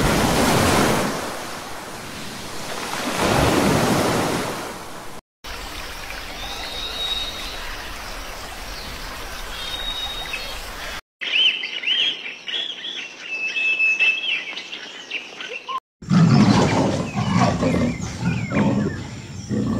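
A run of short animal sound clips. First surf, with a seal's loud calls in two swells. Then a quiet stretch of faint hiss with a few thin high whistles, then high chirping calls, and after a cut about 16 s in, a low pitched growling call from a leopard.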